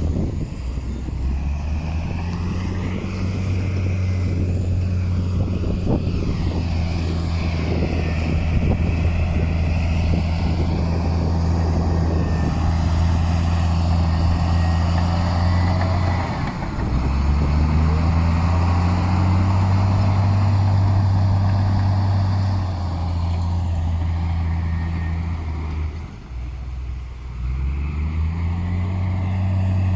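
Heavy diesel engine of earthmoving machinery running hard and steady, its pitch dropping and climbing back up about 16 seconds in and again near 26 seconds. Rattling and clanking sound through the first dozen seconds.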